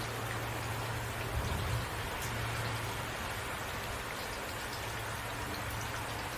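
Steady rain falling, an even hiss with occasional faint drop ticks and a steady low hum underneath.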